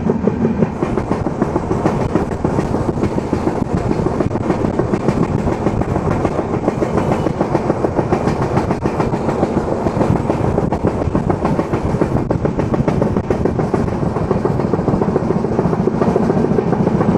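Passenger express train running at speed, heard from aboard: a steady, loud rumble of coach wheels clattering over the rails.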